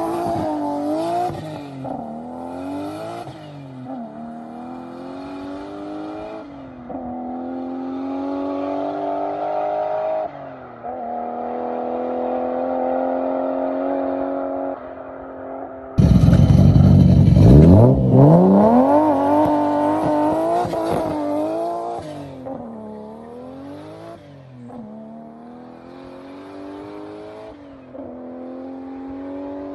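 Toyota Soarer's 1JZ straight-six at full acceleration: the engine climbs in pitch through each gear and drops back at each upshift, five shifts in about 15 seconds, fading as the car pulls away. About 16 seconds in it comes back much louder with a deep rumble, then climbs through the gears again and fades.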